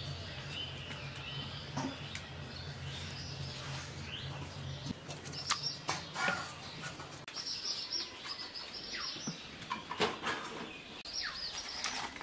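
Birds chirping in the background, in short high calls that cluster in the second half. There are a few light clicks and knocks from dishes and a banana leaf being handled.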